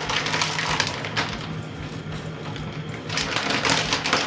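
Crackling, crunching rustle of fresh curry leaves being stripped and crushed by hand and scattered over the dish, with a steady low hum underneath.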